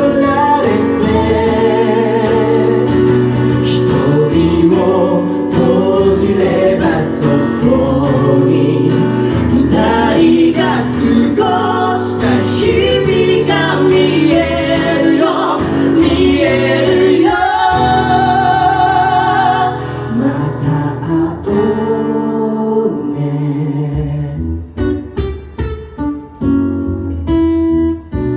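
Live band music with sung, wavering held notes over guitar and bass. From about twenty seconds in it thins out into sparser, broken-up playing.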